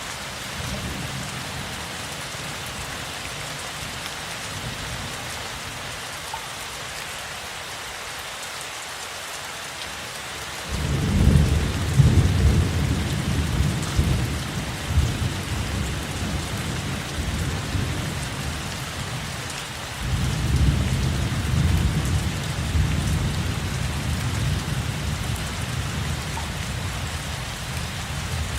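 Steady rain with two long rolls of thunder: the first starts suddenly about a third of the way in and slowly dies away; the second begins about two-thirds of the way in and fades out near the end.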